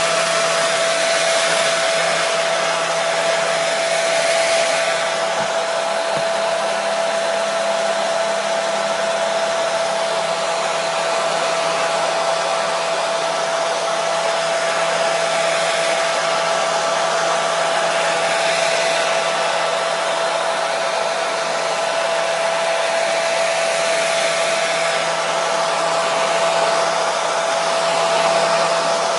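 Hair dryer running steadily: an even rush of blown air with a steady motor whine, played as white noise to soothe a baby to sleep.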